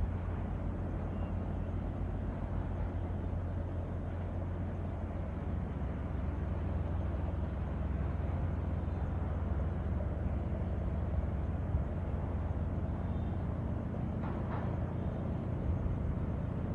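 Night-time wind and waves as a steady low rumble, an even noise with no pauses, and a faint brief higher rustle near the end.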